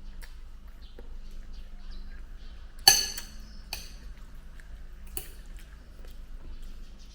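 Tableware clinking during a meal: one sharp, ringing clink about three seconds in, then two lighter clinks, over a low steady hum.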